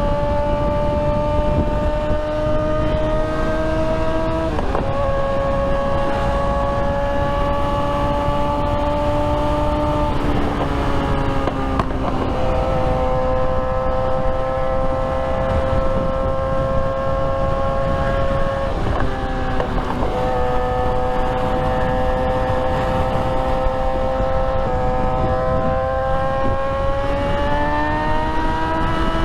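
Motorcycle engine running steadily while riding, its pitch slowly climbing and stepping to a new note several times, over a rush of wind noise.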